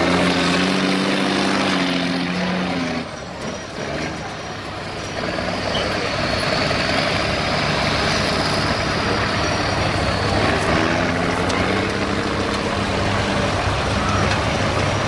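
Heavy off-road truck engine running under load, its pitch rising and falling as it revs, easing off briefly about three seconds in.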